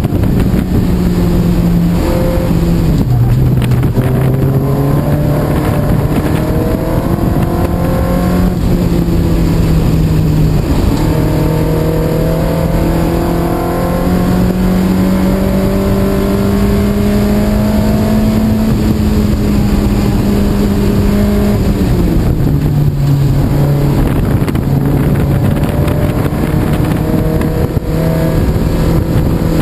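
Lotus Elise S2's Rover K-series four-cylinder engine running hard at high revs, heard from inside the open cockpit at track speed. Its note rises and falls with the throttle, dropping sharply in pitch about three seconds in and again about twenty-two seconds in.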